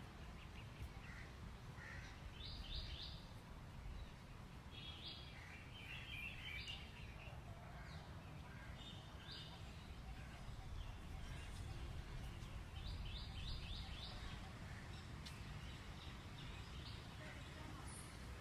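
Birds chirping in short scattered bursts, some as quick runs of three or four notes, over a steady low rumble.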